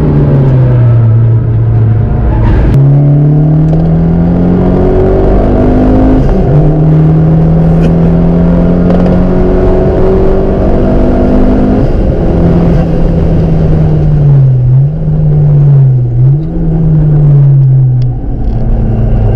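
Fiat Punto Abarth's turbocharged four-cylinder engine heard from inside the cabin under hard acceleration. Its pitch climbs through each gear and drops back at the upshifts, about six and twelve seconds in. Near the end the revs dip and rise twice.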